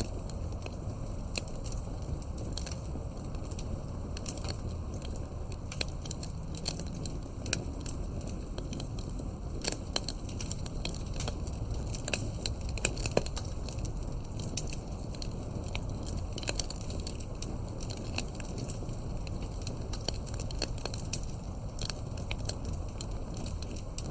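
Campfire crackling, with frequent sharp pops and snaps over a low steady rumble of the flames.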